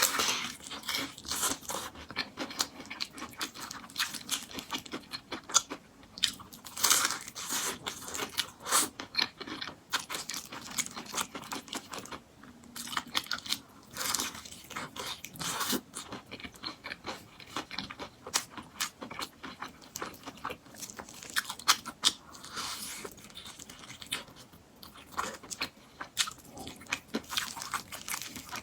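Close-miked biting and chewing of crispy Korean-style fried chicken, with loud, irregular crunches and crackles of the fried coating between quieter chewing.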